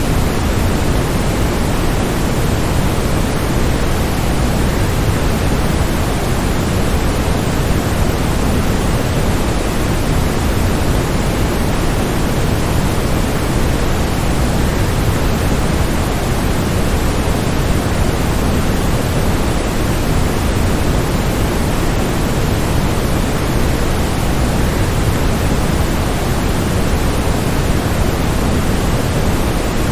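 Waterfall water rushing in a steady, unbroken roar of noise, heaviest in the low end.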